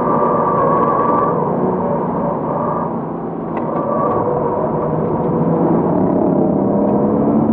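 2007 Porsche Cayman S's 3.4-litre flat-six engine heard from inside the cabin under track driving, with road and wind noise underneath. The engine note holds fairly steady, eases slightly about three seconds in, then rises in pitch near the end as the car accelerates.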